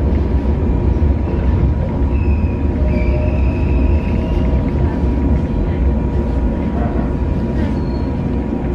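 Steady low rumble heard from inside a local electric train's passenger car as it draws slowly along a station platform. Faint high squeals from the running gear sound from about two to four seconds in.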